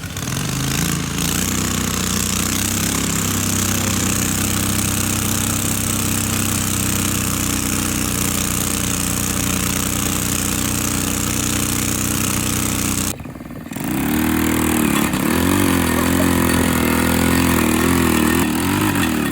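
Small engine running steadily. About 13 seconds in it cuts out for half a second, then it comes back with its pitch wavering up and down, revving a little.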